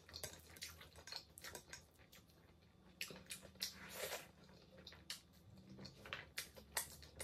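Quiet close-miked eating: irregular soft, wet mouth clicks and smacks of chewing rice and pasta eaten by hand, with a couple of fuller smacks about three and four seconds in.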